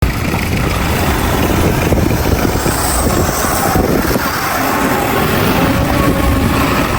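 Heavy diesel earthmoving machinery running steadily, with the engine note climbing a little after the middle.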